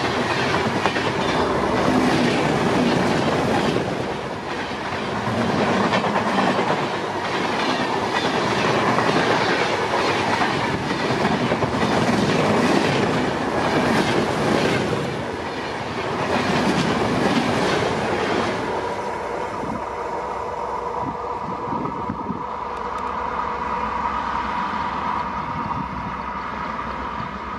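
LHB passenger coaches of a superfast express passing close at full speed, their wheels clattering rhythmically over rail joints under a loud rolling rumble. About two-thirds of the way through it drops to a quieter, steadier rumble with a faint steady whine as the train draws away.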